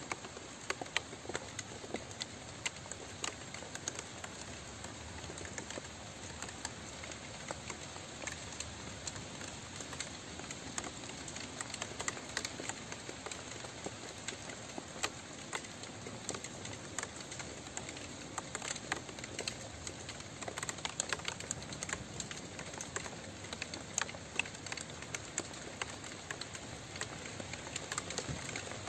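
Steady rain falling, with many separate drops ticking sharply against a surface throughout.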